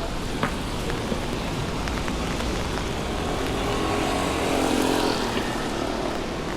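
Steady rain hiss with a motor vehicle passing, its engine loudest about four to five seconds in.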